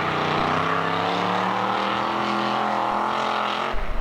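Monster truck engine under load, its pitch climbing steadily as it revs up. Near the end the sound breaks off abruptly into heavy low thumps and rumble.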